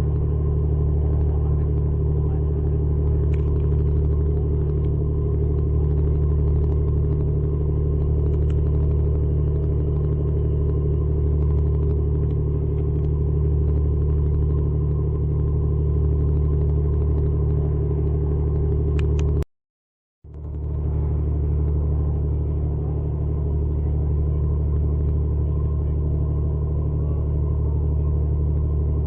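Steady, loud engine rumble, a low even drone like an idling or cruising motor heard from on board, broken once by a brief silent cut about two-thirds of the way through.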